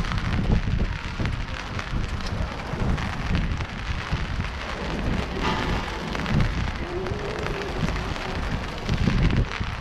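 Steady rain falling, with an irregular low rumble underneath.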